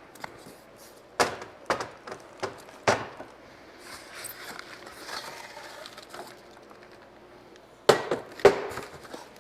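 Sharp knocks and clunks of engine stand parts being handled and set down while unpacking them from their box and styrofoam, with quieter rustling and scraping in between. The two loudest knocks come close together near the end.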